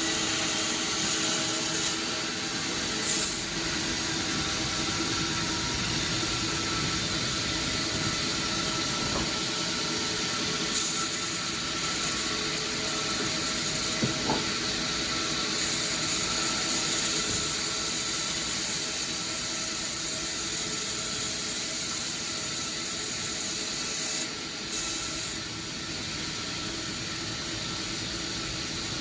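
Sawmill saw running and cutting timber: a steady mechanical whine with a high hiss, which drops out briefly about 24 seconds in.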